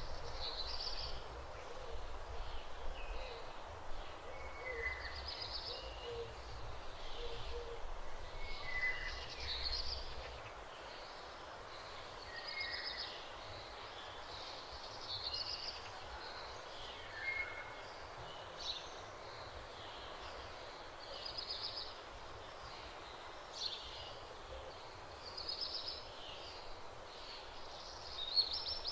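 Birds singing in short chirping phrases that recur every few seconds. A low rumble runs underneath for the first ten seconds or so, then stops.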